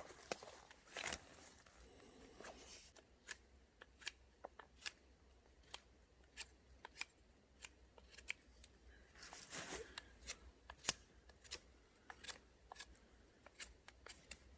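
Faint, scattered sharp clicks and snaps at irregular intervals, with short bursts of rustling near the start and again about ten seconds in.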